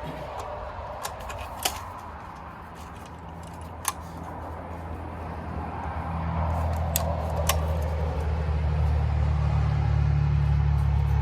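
An engine running steadily, growing louder about halfway through, with a few short sharp clicks over it.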